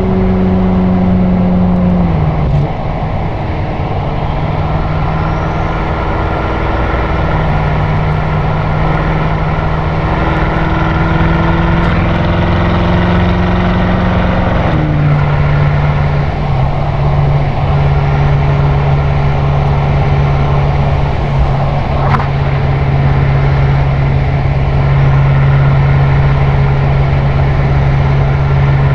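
BMW M6 Gran Coupe's twin-turbo V8 exhaust, through an Akrapovič Evolution Line system, droning steadily at highway cruise with road noise. The pitch drops suddenly about two seconds in, creeps up, then drops again about halfway through.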